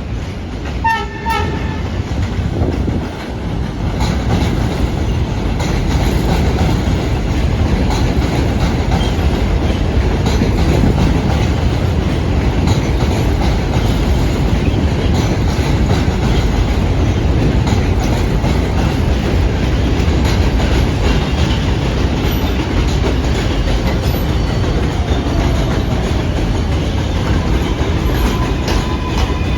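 NYC Subway R188 train on the 7 line sounds a short horn about a second in, then runs through with a loud, steady rumble of wheels on the elevated track. A faint rising whine comes in near the end.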